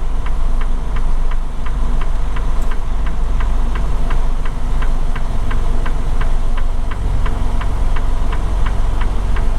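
Semi truck's diesel engine running steadily, heard inside the cab, with an even clicking about three times a second, like a turn-signal relay.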